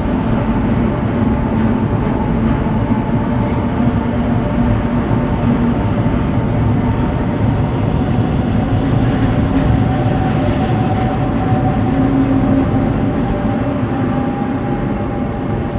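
Passenger train pulling out of the station, a steady, loud rail rumble with humming tones, one of which rises slightly in pitch about halfway through as it gathers speed.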